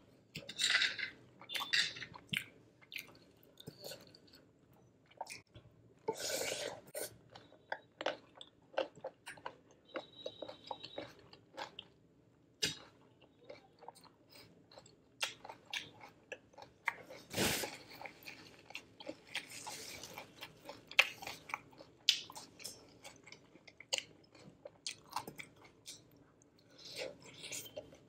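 Close-miked chewing and crunching of a raw cucumber salad, an irregular run of crisp crunches with a couple of louder bites about 6 and 17 seconds in.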